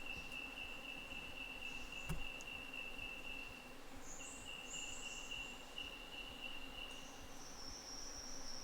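Insects calling: a steady high-pitched drone on one tone that fades out near the end, with higher, shorter buzzy calls joining near the middle and the end. A single sharp click about two seconds in.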